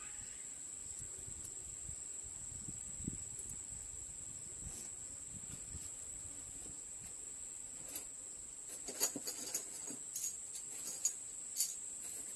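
A run of light, sharp clicks and taps in the second half, like small parts or hand tools being handled during engine reassembly, over a steady high-pitched tone.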